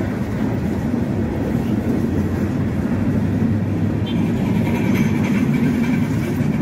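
Long freight train of empty gondola cars rolling past steadily, a continuous low rumble of steel wheels on rail.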